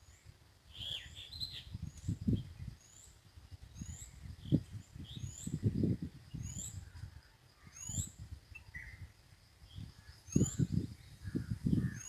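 Wild birds calling: a short, high rising chirp repeated about once a second, with other scattered calls lower down. Irregular bursts of low rumble from wind on the microphone are the loudest thing.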